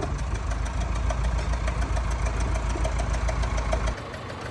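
An engine idling with a steady, even firing rhythm. Its low rumble drops away abruptly about four seconds in.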